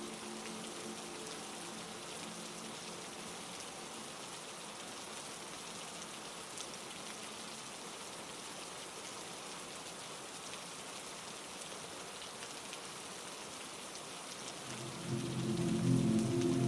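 Heavy rain falling in a steady, even hiss. A few low steady tones fade out at the start, and a louder set of low droning tones swells in near the end.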